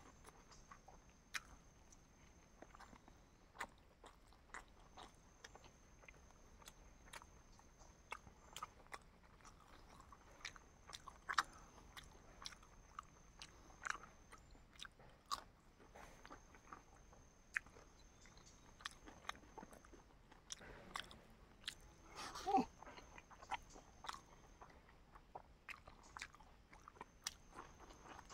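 A person eating close to the microphone: quiet chewing and biting with many short wet mouth clicks and smacks, a little louder about 22 seconds in.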